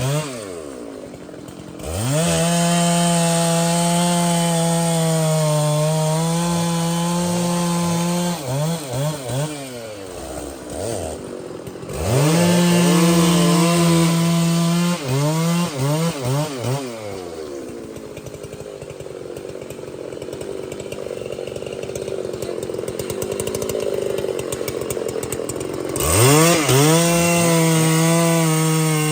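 Large professional two-stroke chainsaw cutting wood: held at full throttle for several seconds at a time, dropping back and blipping the throttle between cuts. A stretch in the middle runs lower and rougher before the saw is opened up again near the end.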